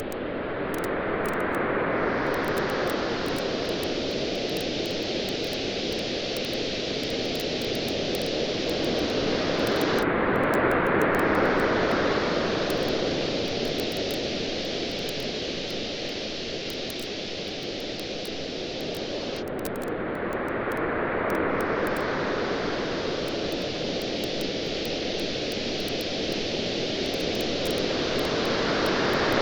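Ocean waves washing in slow swells about every nine to ten seconds, with a campfire crackling in small sharp pops throughout.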